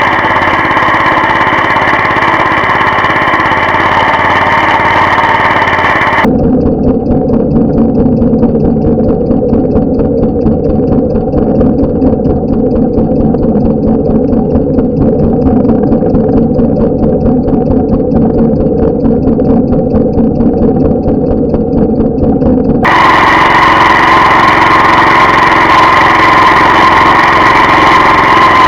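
Walk-behind tractor engine running steadily. About six seconds in the sound turns abruptly duller and lower, and switches back just as abruptly a few seconds before the end.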